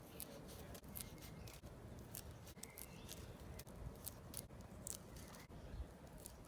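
Scissors or garden snips cutting flower stems: a quick, irregular series of sharp snips.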